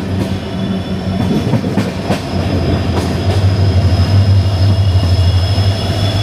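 Express train coach running on the rails, a steady high-pitched wheel squeal over a low rumble, with a few sharp clicks of the wheels over rail joints; a low hum swells from about halfway through.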